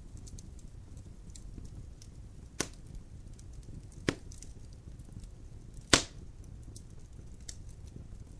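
Wood fire burning in a fireplace: a steady low rumble of flames with light crackling, and three sharp pops from the burning logs, the last the loudest.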